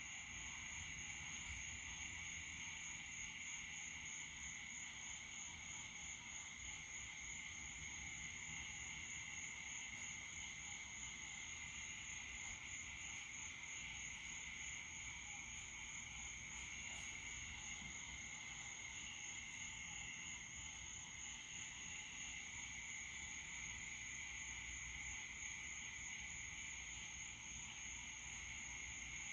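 Night chorus of crickets and other insects: a steady high-pitched pulsing trill over a lower continuous buzz, unbroken throughout.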